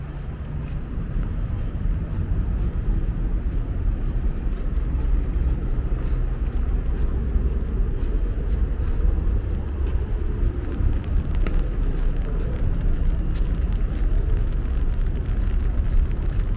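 City street ambience dominated by a steady low traffic rumble, with scattered faint ticks over it.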